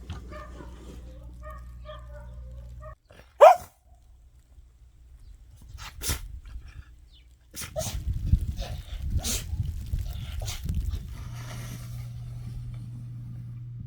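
A dog barking, with one loud, short, rising bark about three seconds in and a few fainter sharp sounds after.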